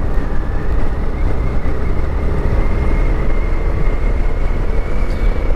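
Motorcycle on the move: a steady engine and road rumble with heavy low wind noise on the microphone.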